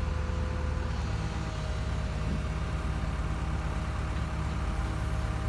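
Excavator's diesel engine running steadily, its note shifting slightly about a second in.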